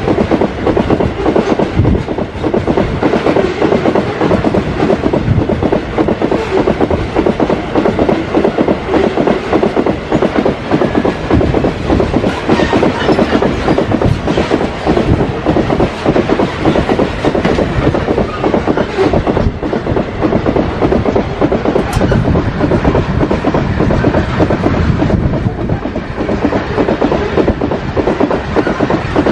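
Loaded freight train wagons passing close by at speed, with a loud, continuous rattle and clatter of wheels over the rails.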